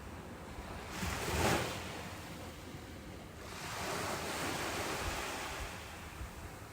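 Ocean surf breaking on a beach: one wave crashes about a second in, then a broader wash of surf swells and fades around four to five seconds in.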